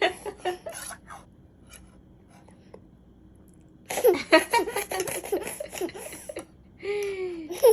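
A toddler laughing and babbling in bursts: a short run at the start, then a longer stretch of laughter about four seconds in, and a gliding squeal near the end.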